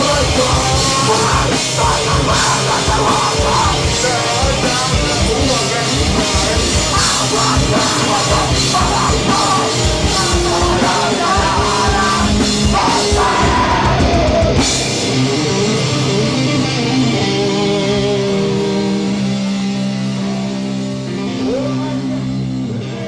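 Hardcore band playing live: pounding drums under distorted guitars, until the drums stop about two thirds of the way through and the guitars ring on a held chord that slowly fades.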